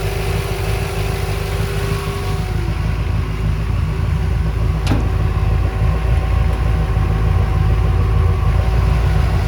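427 side-oiler Ford FE V8 idling steadily, a deep even rumble. A thin steady whine over it stops about two and a half seconds in, and there is a single sharp click near the middle.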